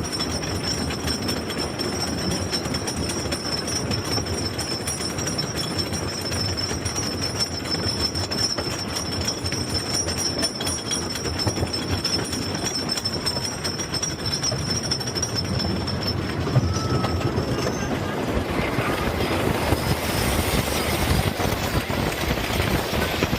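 Roller coaster train running along its track: a steady rumble with a thin high whine of the wheels, changing to a broader rushing noise near the end.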